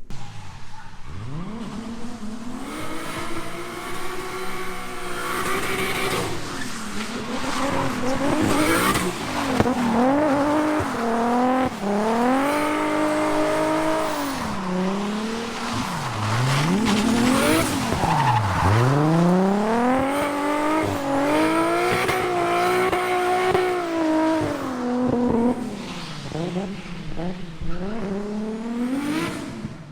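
Drift car's engine revving hard, its pitch rising and falling again and again as the throttle is worked, with tyres squealing through the slides.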